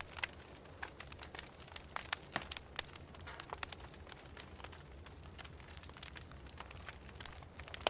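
Wood fire in a fireplace crackling: irregular sharp pops and snaps, several a second at times, over a low steady rumble.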